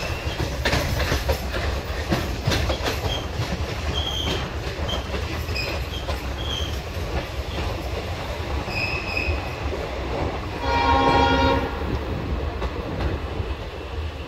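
Indian Railways passenger express running, heard at an open coach window: steady rumble with wheel clatter and knocks over the rail joints. About two-thirds of the way through, a train horn sounds once for about a second.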